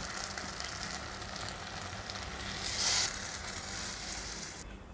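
Soaked rice, pineapple and whole spices sizzling steadily in ghee, with a brief louder hiss about three seconds in.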